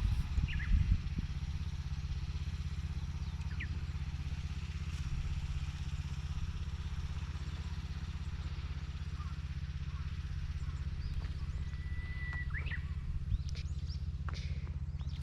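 Small engine of a vegetable transplanter running steadily at a constant speed, with a few clunks about a second in. Short high chirps come in near the end.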